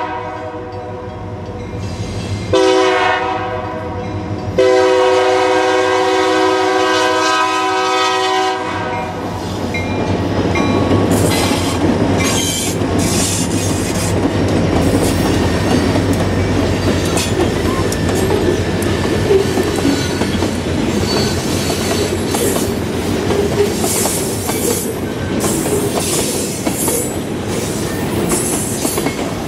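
Diesel freight train horn sounding in blasts, the last held about four seconds, then the locomotives and cars passing close with a heavy rumble and steady clickety-clack of wheels over rail joints, with some wheel squeal.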